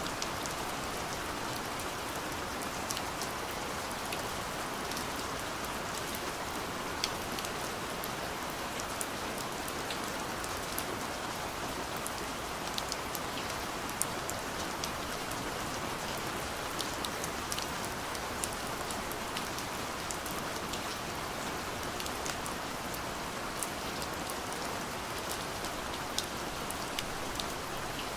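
Steady gentle rain falling on a window, an even patter with scattered sharper ticks of single drops striking the glass.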